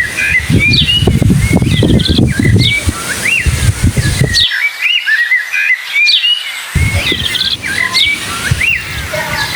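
Small birds chirping and twittering over and over, in quick high rising and falling notes. Beneath them runs a low rumble that drops out abruptly for about two seconds midway and then comes back.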